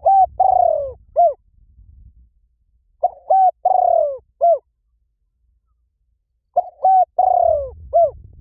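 A bird's cooing call phrase played three times at even intervals, as a looped lure recording. Each phrase has two short coos, a long coo falling in pitch, and a short final coo.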